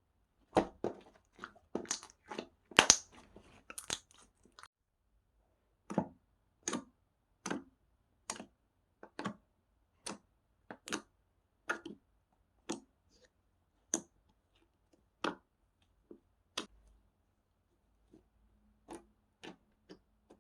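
Slime being pressed and squeezed by hand, making crisp clicks and pops. The clicks come thick and fast in the first few seconds, then settle to about one every three quarters of a second.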